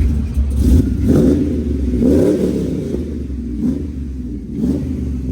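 Pickup truck engine idling with about four short revs, breathing through a new full exhaust of headers, MagnaFlow muffler and side-exit pipe.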